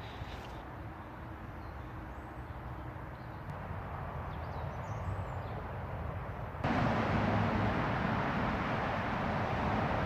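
Steady distant road-traffic rumble with faint bird chirps, then suddenly about two-thirds of the way in a louder, even rushing of water as Cockster Brook pours out of its culvert under the A50.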